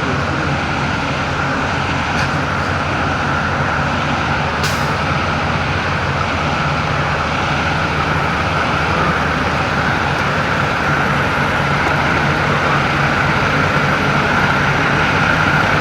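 Semi-truck's diesel engine running steadily, its level creeping up slightly toward the end.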